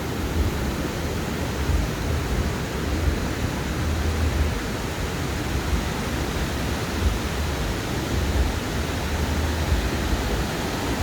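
Ocean surf washing steadily onto a sandy beach, an even hiss of breaking waves with an uneven low rumble beneath it.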